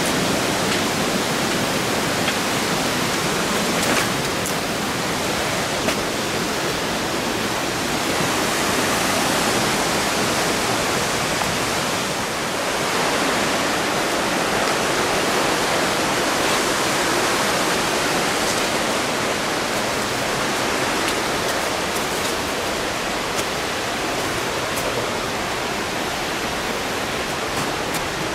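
Mountain stream water rushing steadily, with a few faint clicks.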